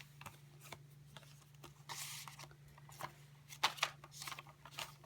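Paper pages, tags and ephemera of a handmade junk journal rustling as they are handled and turned, in a few short soft rustles, the loudest about two seconds in and again near the middle. A faint steady low hum runs underneath.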